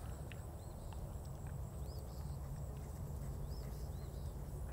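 Quiet open-air ambience: a low wind rumble, with a small bird chirping faintly, a short rising-and-falling note about every second and a half.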